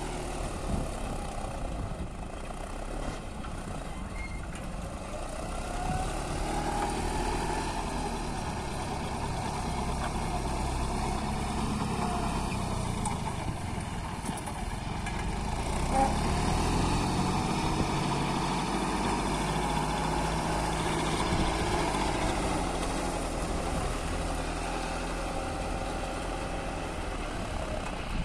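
Tractor engine running steadily, its pitch rising and falling slowly a few times as the engine speed changes.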